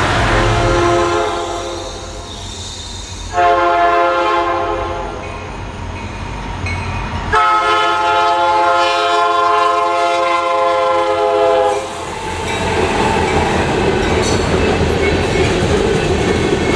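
Freight train locomotive horn sounding: a note fading out early, then two loud blasts, the second longer at about four seconds. After that the train rolls past with steady wheel and rail noise.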